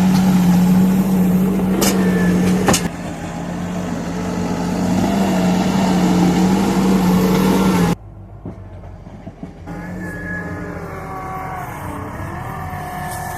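Bobcat skid-steer loader's engine running hard under load, with a sharp knock about three seconds in. About eight seconds in the sound cuts abruptly to a quieter, lower engine note that rises and falls as the machine works.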